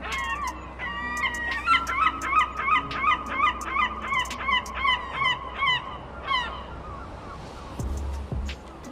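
A large bird calling in a long run of loud, repeated sharp notes, about three a second, stopping after some six seconds.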